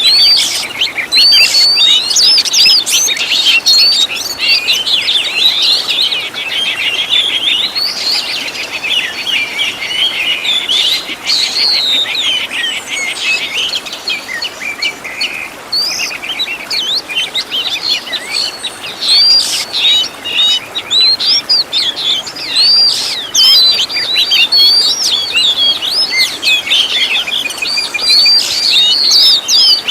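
Oriental magpie-robin (kacer) singing a continuous, fast, varied song packed with mimicked calls of other birds, with a rapid rattling trill about eight to twelve seconds in.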